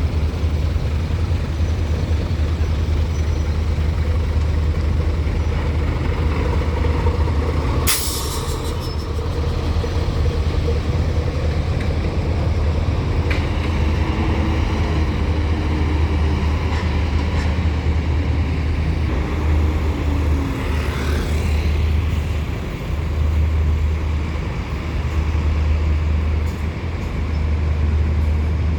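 Trucks and buses running near a ferry loading ramp: a deep, steady engine rumble, with a short, sharp air-brake hiss about eight seconds in.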